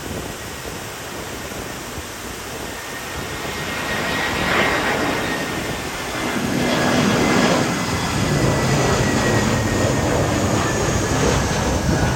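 Jet aircraft landing: a steady rumble of engines and rushing air with a thin high whine that slowly falls in pitch. The sound grows louder about four and six seconds in.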